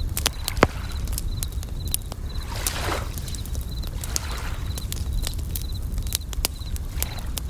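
Campfire crackling with frequent sharp pops, over a steady low rumble. Bell crickets chirp in short repeated trills throughout, and a wave washes in about two and a half seconds in.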